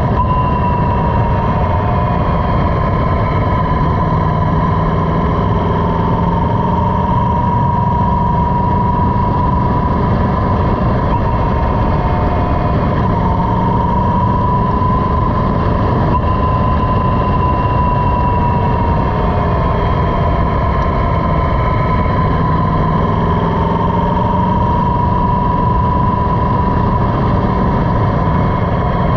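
Motorcycle engine running while riding, under a loud, steady rush of noise, with the engine note drifting gently up and down in pitch.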